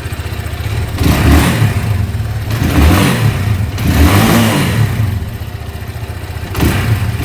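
200cc motorcycle engine running just after being kick-started from cold, idling with the throttle blipped up about four times. The bike had stood unused for months and would not start on its electric starter.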